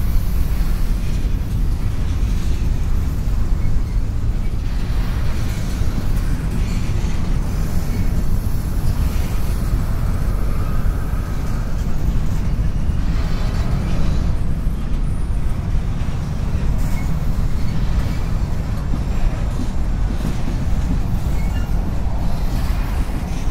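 CSX freight train's covered hopper cars and boxcars rolling past on the rails, a steady low rumble of wheels on track.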